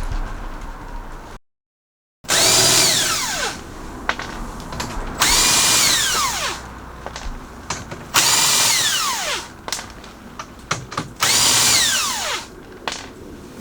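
A handheld electric power tool run in four short bursts about three seconds apart. Each time the motor whines briefly at speed, then falls in pitch as it spins down after the trigger is let go.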